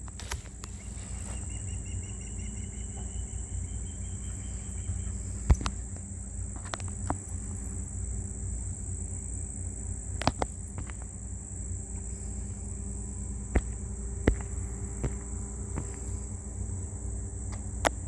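Outdoor ambience: a steady high-pitched insect-like whine over a low rumble, with scattered sharp clicks and a short trill of bird notes early on.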